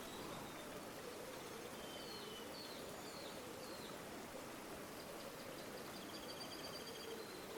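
River water flowing steadily. A small songbird calls over it: a few short chirps about two seconds in, then a rapid trill in the second half.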